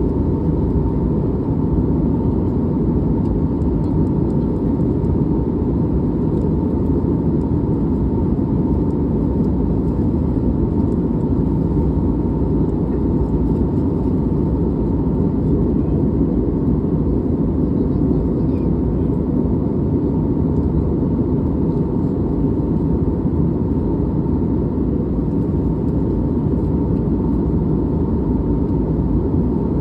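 Steady cabin noise of an airliner in flight: an even, unchanging rush of engine and airflow noise, deep and loud, with a faint steady hum on top.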